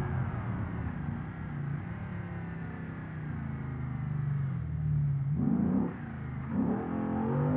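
Porsche Cayenne Turbo S twin-turbo V8 heard from inside the cabin, pulling under throttle with its note rising through the middle. About two thirds of the way in it surges twice briefly, as with gear changes.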